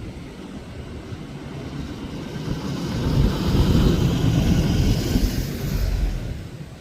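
A motor vehicle passing close by: its engine rumble and road hiss swell from about two seconds in, are loudest in the middle, and fade near the end.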